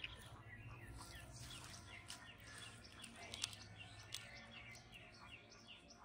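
Birds chirping faintly: short falling chirps that settle into a steady run of about three a second in the second half. There is a single sharp click about halfway through.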